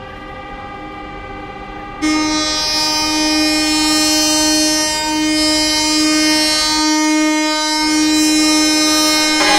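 Ship's horn sounding a long, steady blast. A quieter horn note is already sounding when it comes in much louder about two seconds in and holds on one pitch.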